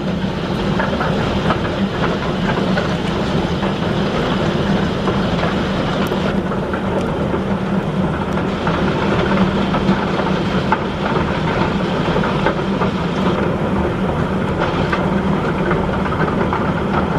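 Golf-ball-sized hailstones pelting down in a dense, steady clatter of many small impacts.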